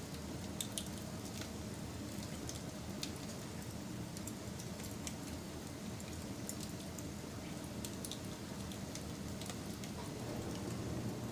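Campfire burning: a steady low rush of flames with irregular sharp crackles and pops from the burning wood.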